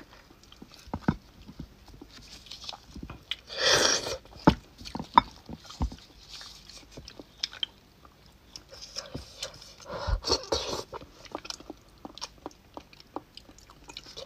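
Close-miked wet chewing and lip smacking of soft beef bone marrow, with sharp little clicks of a metal spoon against the bone. The mouth noise is louder about four seconds in and again around ten seconds.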